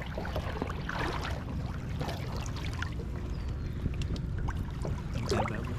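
Lake water sloshing and trickling around a large fish held in the water for release, with small irregular splashes and handling clicks over a steady low rumble.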